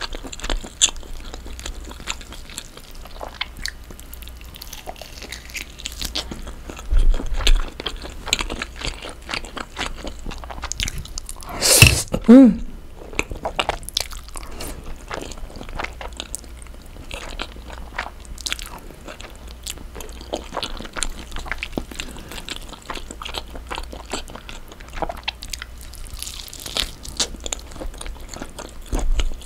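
Close-miked eating sounds: biting into and chewing air-fried smoked pork belly and cream pasta, with many small wet mouth clicks. There are louder sharp mouth noises about seven seconds in and, loudest of all, about twelve seconds in.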